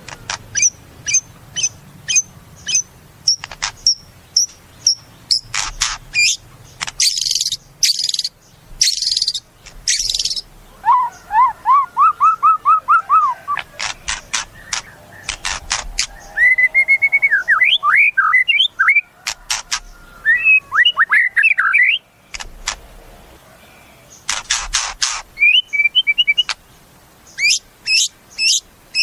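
White-rumped shama (murai batu) singing a long, varied song: strings of short high repeated notes, harsh rasping notes, and quick slurred whistles that rise and fall in pitch.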